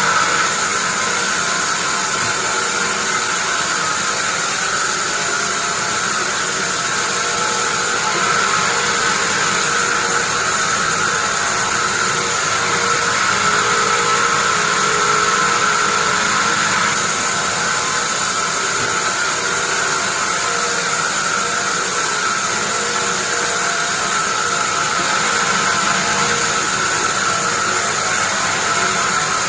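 Sawmill bandsaw running steadily, a constant mechanical noise with a high whine, on pine wood.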